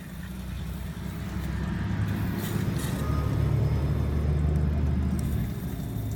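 WD-40 aerosol sprayed into the rear differential's drain hole to flush out water-contaminated oil, a steady hiss. Under it runs a low rumble that swells about a second in and eases near the end.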